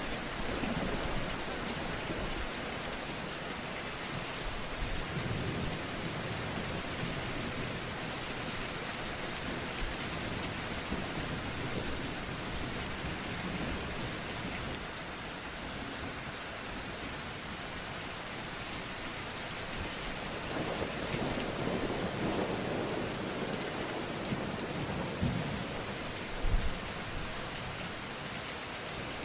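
Steady rain falling, with low thunder rumbling in slow swells and a sharp, louder thunder crack a few seconds before the end.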